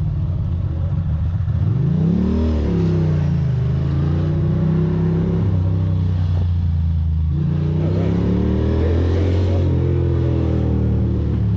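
Ducati Monster's V-twin engine under way, revving up sharply about two seconds in, settling back to a steady pull, then climbing in revs again around eight seconds in.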